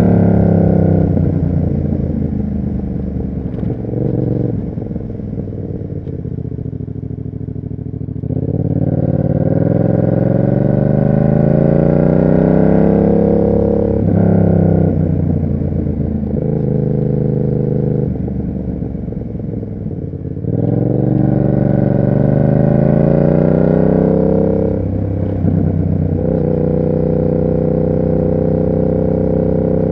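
Yamaha MT-07's 689 cc parallel-twin engine through an SC Project exhaust: the rider slows at first with the pitch falling, then pulls through the gears with the pitch climbing and dropping at each shift, and settles into a steady cruise near the end.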